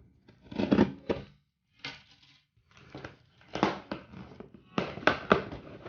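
Cardboard box and packaging being opened by hand: irregular rustling, crinkling and tearing in short bursts, with sharp handling clicks.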